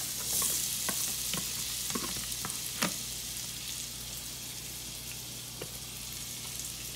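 Diced raw mango tipped into a pan of hot spiced oil, sizzling. The hiss is loudest at first and dies down, with a few sharp clicks and knocks over it.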